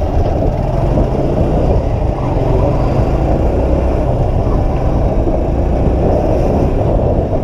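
Apache RTR 160 motorcycle being ridden along the road: a steady, loud rush of engine and wind noise with no letup.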